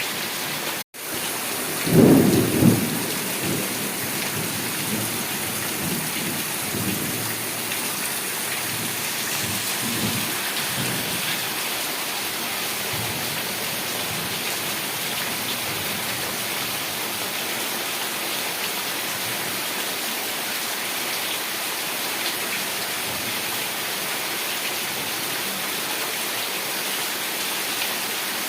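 Heavy rain falling steadily, with a roll of thunder about two seconds in that is loudest at first and rumbles on more faintly for several seconds. The sound cuts out for an instant just before the thunder.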